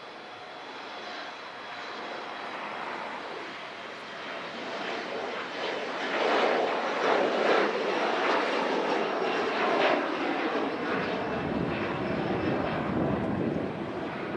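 Airplane engines passing by, a rushing sound that swells over the first six seconds and stays loud, with a deeper rumble coming in near the end.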